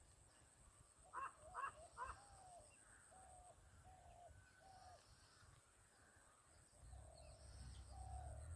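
Birds calling: three quick calls in a row about a second in, then a string of shorter single calls about every half to one second. A faint low rumble builds near the end.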